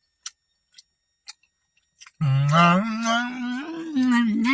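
A few sharp isolated clicks, then from about two seconds in a loud, long voice held around one low pitch with slight wavers, humming- or howl-like.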